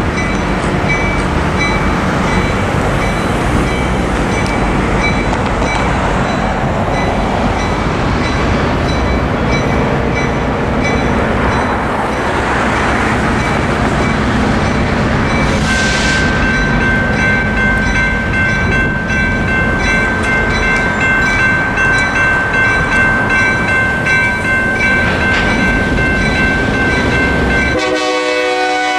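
Freight train's EMD diesel locomotives running with a loud, steady rumble, joined about halfway through by a steady high tone. About a second before the end the rumble drops away and the crossing's Safetran electronic bell starts ringing in quick, even pulses as the gates come down.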